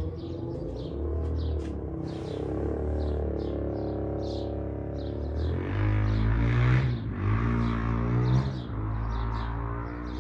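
Suzuki LTZ400's single-cylinder four-stroke engine running through a Yoshimura exhaust with the spark arrestor removed: idling, then revved up twice in the second half. Birds chirping over it.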